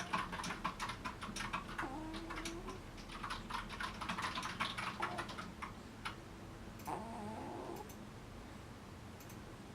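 Sleeping cat making two short, wavering squeaky vocalizations, about two seconds in and again about seven seconds in. Over the first six seconds there is rapid clicking.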